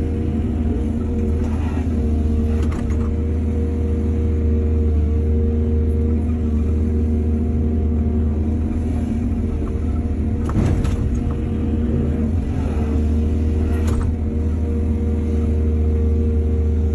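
Excavator's diesel engine running steadily under load, with a few scattered clunks, the loudest a little past the middle.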